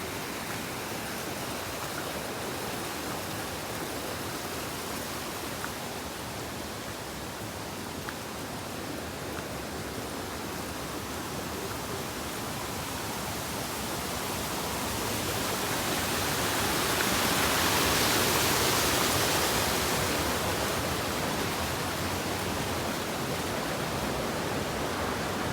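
Steady rush of flowing water, swelling louder about two-thirds of the way through before settling back.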